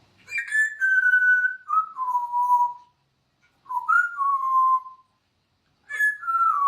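Pet parrot whistling: three whistled phrases, each starting with a click and stepping down in pitch, the first the longest.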